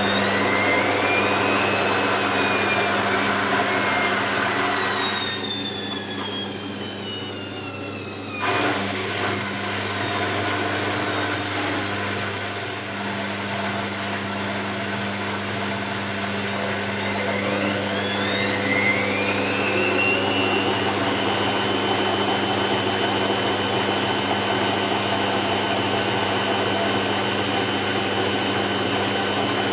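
Hoover VisionTech washing machine's drum motor whining as the drum spins: the pitch rises, sinks slowly over several seconds, then climbs again about two-thirds of the way in and holds at a high steady speed, over a constant hum.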